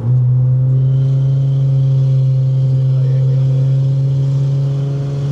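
Car engine heard from inside the cabin, jumping up in pitch at the start as the driver puts his foot down, then holding a steady, loud drone under hard acceleration.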